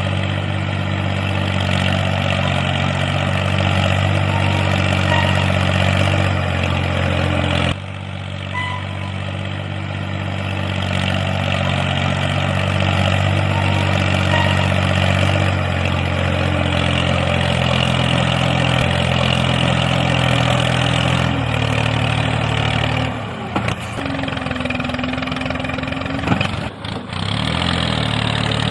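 Steady engine-like running sound with a low, even drone, as of a small tractor, dipping briefly about eight seconds in and shifting pitch a few times later on.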